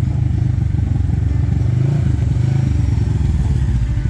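Side-by-side UTV engine running under throttle while riding a muddy trail, with a brief dip in its note about two seconds in.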